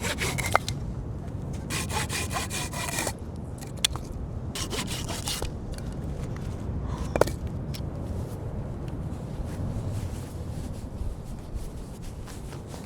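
Hand saw cutting through wood in quick back-and-forth strokes, in three short bursts over the first five or six seconds, with a few sharp knocks; after that only quieter handling sounds.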